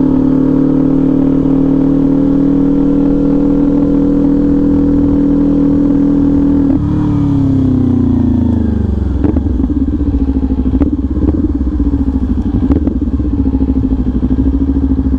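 Kawasaki Ninja 400 parallel-twin through an SC Project exhaust, holding steady revs. About seven seconds in the revs drop and fall away as the bike slows, and it settles into an uneven low-rev burble with a few sharp clicks.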